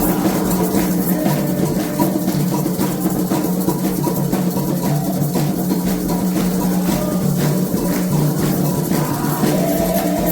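Candomblé ritual drumming: hand drums keep up a steady, driving rhythm with rattling shakers over it.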